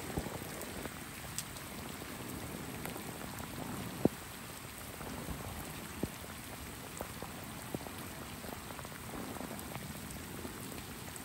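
Steady rain falling, with scattered sharp taps of drops landing close by; the loudest tap comes about four seconds in.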